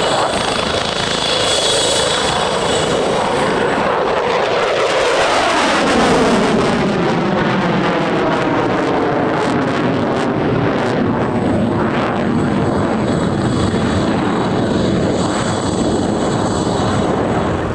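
An aircraft flying low past the spectators, its loud engine noise taking on a sweeping, falling tone as it passes about five seconds in.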